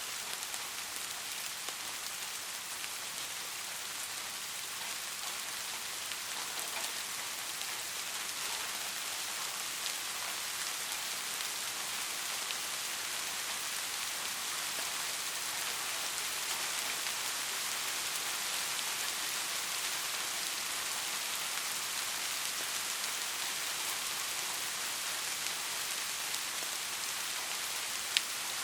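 Steady rain falling on a hard surface, an even hiss of many drops with a few sharper drop hits. One sharp tick stands out near the end.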